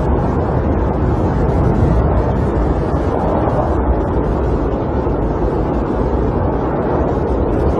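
Snowstorm wind blowing steadily: a dense, low rushing noise with no breaks.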